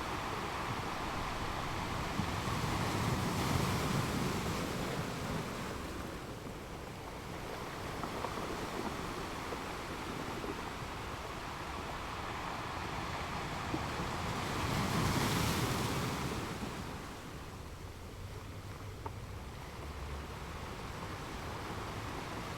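Sea waves breaking and washing in, a steady surf hiss that swells twice.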